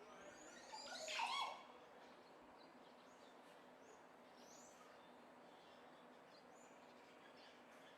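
A bird calling: a short burst of quick chirps about a second in, then a few faint, brief chirps over a quiet background.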